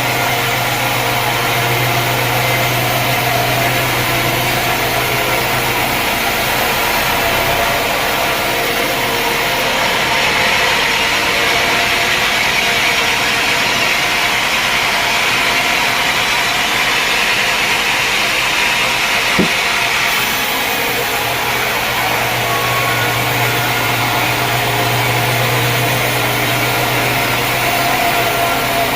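Sawmill machinery running steadily. A low hum fades out after about six seconds while a brighter hiss takes over, and the hum comes back in the last third, with a single sharp click about two-thirds of the way in.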